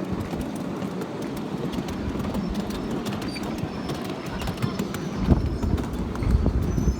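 Miniature park train running along its track, its wheels clicking and clattering in a quick, uneven rhythm. A heavier low rumble joins about five seconds in.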